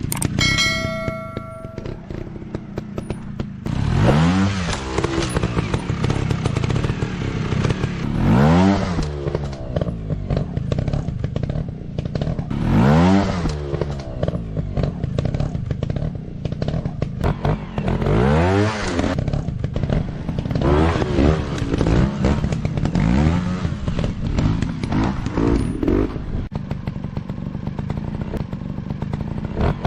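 Motorcycle engines running with repeated revving: the pitch climbs and drops back about every four to five seconds, with some clattering. A short ringing chime sounds in the first two seconds.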